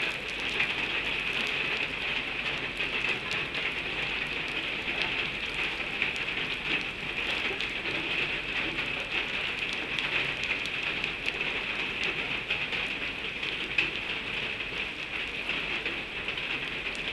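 Steady rain falling, a dense, even hiss of countless small drop hits.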